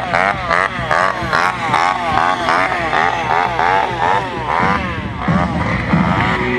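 Sport motorcycle engine revved hard in quick repeated blips, about four a second, its pitch jumping up and falling back each time, as if bouncing off the rev limiter.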